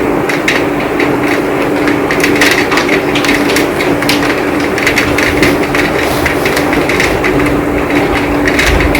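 Heavy, steady rain, with a dense patter of individual drops striking close by.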